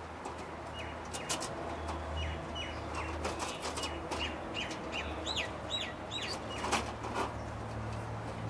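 A small bird chirping in quick, short hooked notes, most busily in the middle, over light clicks and scrapes of thin wire being twisted by hand through chicken-wire mesh. A steady low rumble runs underneath.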